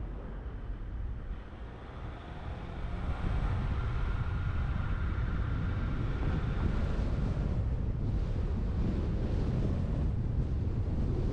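Wind buffeting a camera mounted on the roof of a moving truck, over low road rumble. It grows louder about three seconds in, as the truck speeds up.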